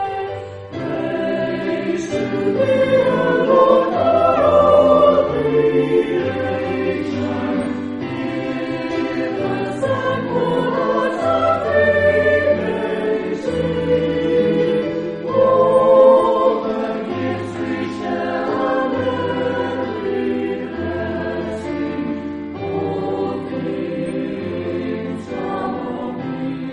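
A choir singing sacred music over held low bass notes that change every second or two.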